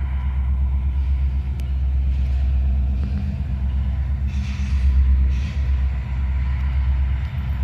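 Diesel freight locomotives of a loaded coal train rumbling deeply and steadily, with two brief hisses about halfway through.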